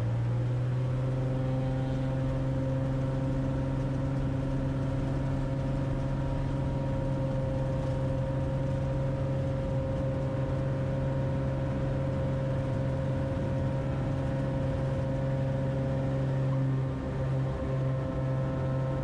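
Cessna 180's six-cylinder Continental piston engine and propeller droning steadily at constant pitch, with a brief dip in level near the end.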